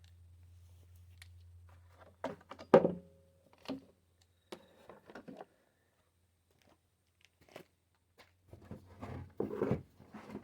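Scattered clicks and knocks of a lawn mower's plastic recoil starter assembly being lifted off and handled, with one louder clunk a little under three seconds in and a cluster of handling sounds near the end. A faint low hum runs under the first couple of seconds.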